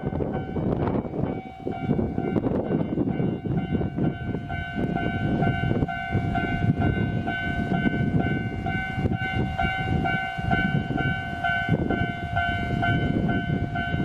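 Nagano Electric Railway train running through the station, with a heavy rumble and clattering of wheels over the rails. A steady, evenly pulsing high tone sounds over it, getting stronger about four seconds in.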